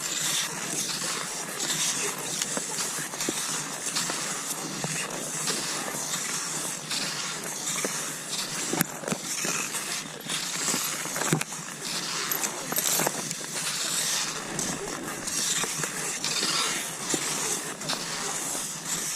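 Cross-country skis swishing over snow, the hiss swelling and fading with each stride, with a few sharp clicks from the poles or skis.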